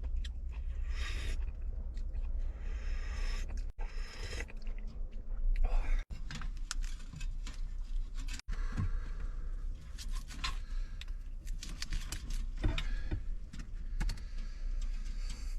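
A person chewing and crunching food close to the microphone, with many small sharp clicks and crackles, over a steady low rumble.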